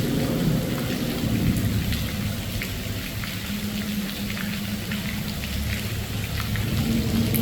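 Hurricane wind and rain: a steady low rumble of wind buffeting the microphone, with scattered ticks of raindrops.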